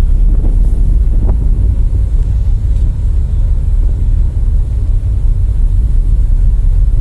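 Steady low rumble aboard a ship under way at sea, with wind buffeting the microphone.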